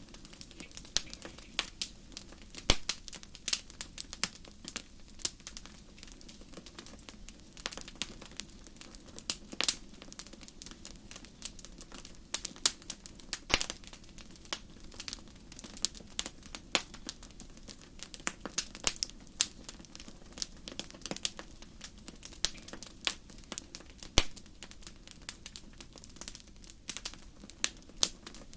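Wood fire burning in a fireplace, crackling with irregular sharp pops and snaps over a soft, steady hiss, a few pops louder than the rest.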